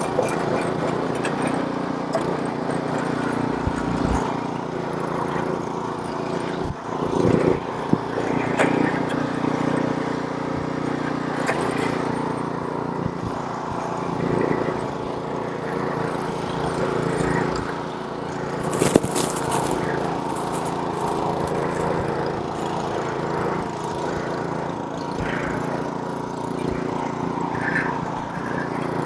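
Snowblower's small gas engine running steadily while clearing snow, with one brief sharp burst of noise about two-thirds of the way through.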